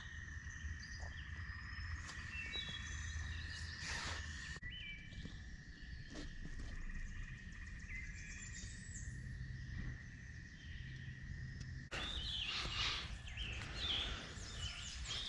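Morning birdsong in woodland: several small birds chirping and singing in short phrases over a steady high-pitched drone. The drone cuts off abruptly about twelve seconds in, and the chirping gets denser.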